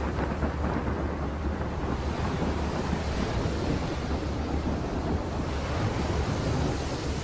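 Steady rushing sea-and-wind ambience over a constant low rumble.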